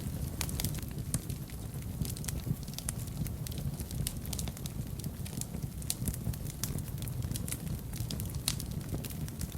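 Wood fire burning in a fireplace: a low steady rumble of flames with frequent irregular crackles and pops.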